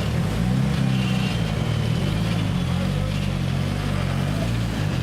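The turbocharged four-cylinder engine of a Mitsubishi Lancer Evolution IX time-attack race car running at low revs, a steady low drone whose pitch shifts slightly.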